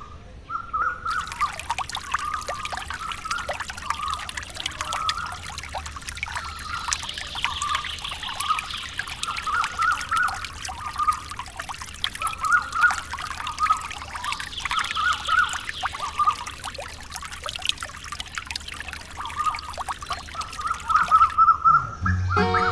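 Water pouring and trickling steadily, starting about a second in and cutting off shortly before the end, with short repeated chirps behind it.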